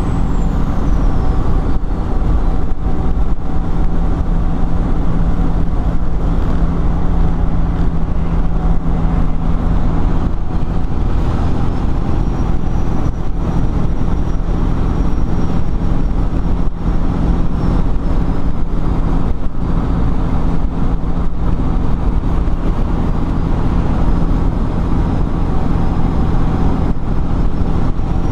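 Detroit 12.7 litre diesel of a 1997 Peterbilt 378 running steadily as the truck drives, with a faint high whistle that slides down and back up.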